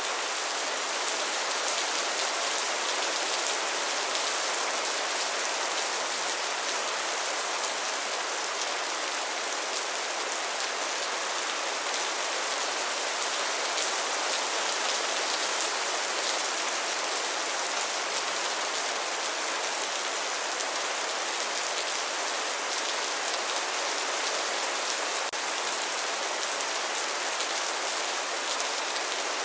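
Steady rain falling: an even hiss with a fine patter of drops that holds at the same level throughout.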